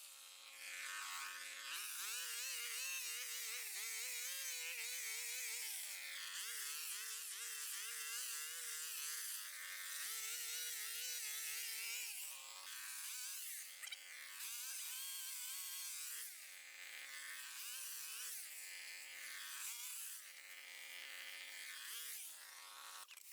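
A small engine revving up and dropping back over and over, its pitch jumping between a low and a high level about a dozen times, the throttle pattern of cutting.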